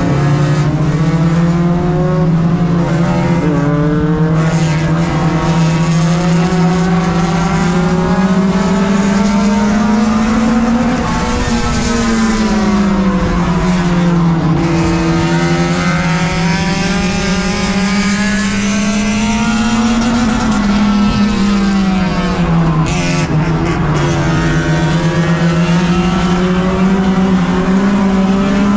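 Four-cylinder tuner race car engine heard from inside the cockpit, running steadily with its pitch slowly climbing and dropping a couple of times as it circles the oval at the reduced pace of a caution period.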